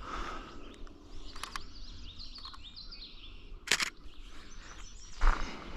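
Songbirds singing over a steady outdoor hiss, a run of short high notes in the middle. A few faint clicks, and one louder sharp click a little past halfway.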